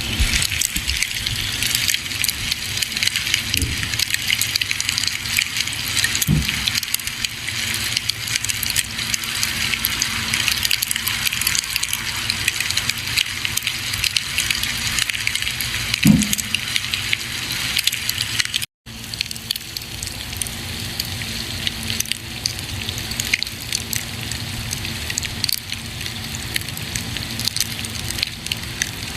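Campfire crackling: a steady hiss of burning wood with many small sharp pops, and a couple of soft low thuds. The sound cuts out for a split second about two-thirds of the way through.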